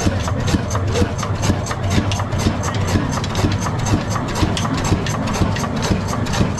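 Large 60 hp Ruston Hornsby diesel engine running at a steady speed, with an even, rapid, regular beat.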